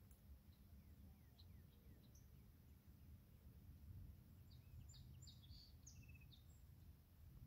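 Near silence: faint outdoor ambience with a low rumble, and a few faint bird chirps clustered about five to six seconds in.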